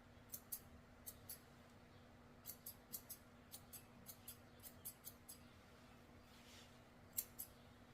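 Grooming scissors trimming a poodle's hair in quick, faint snips, many in pairs, pausing briefly then snipping twice more near the end.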